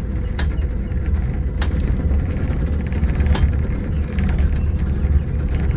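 Yokjido tourist monorail car running downhill, a steady low rumble with three sharp clicks.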